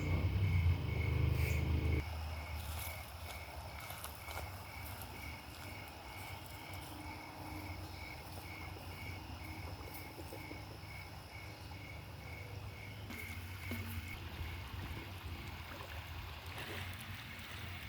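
Insects chirping in an even, steady rhythm of about two chirps a second. For the first two seconds a low vehicle rumble from a bus sits under it, then cuts off suddenly.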